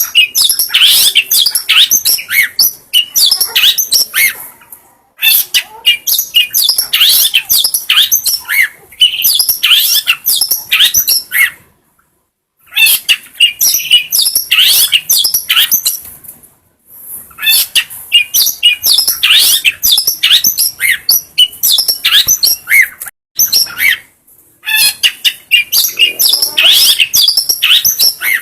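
Long-tailed shrike (cendet) singing: a rapid, loud run of quick chirps and short whistled notes sliding up and down. It comes in five bouts of several seconds each, broken by brief silences.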